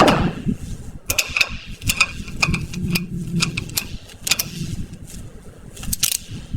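A swish fading out at the start, then an irregular run of sharp metallic clicks and taps, about a dozen, each with a light ring, over a low rumble.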